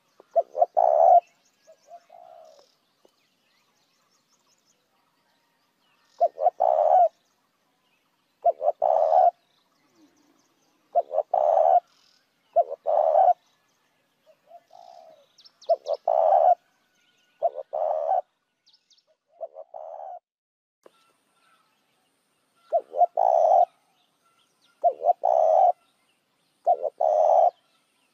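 Spotted dove cooing: short low coo phrases repeated every couple of seconds, a lure call for attracting wild doves.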